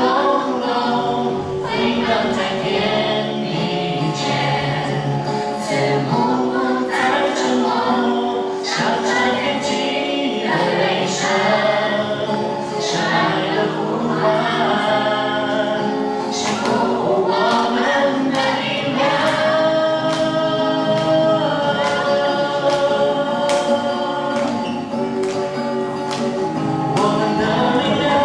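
A group of voices singing together in chorus, sustained chords moving from note to note.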